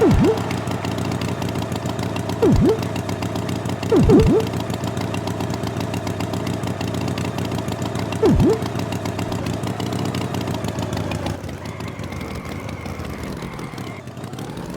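Cartoon tractor engine sound effect running steadily, quieter and thinner for the last few seconds, with several short, loud swooping sounds that dip sharply in pitch and come straight back up: once at the start, once about two and a half seconds in, twice together about four seconds in, and once about eight seconds in.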